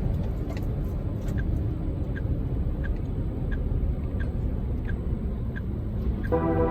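Large truck in motion: a steady low engine and road rumble, with a light regular tick about every 0.7 seconds like a turn-signal indicator clicking. Background music comes in near the end.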